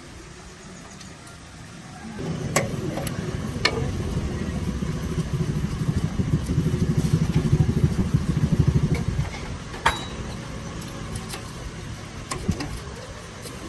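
An engine running with a low, fast-pulsing rumble, getting louder about two seconds in and easing off after about nine seconds, with a few sharp metallic clinks over it.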